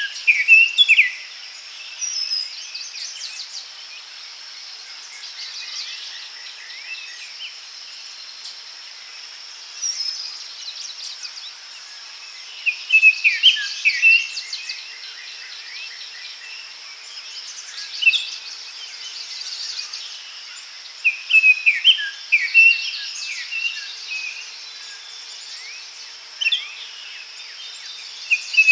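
Daytime forest ambience: songbirds singing short chirping phrases every few seconds over a steady high insect buzz.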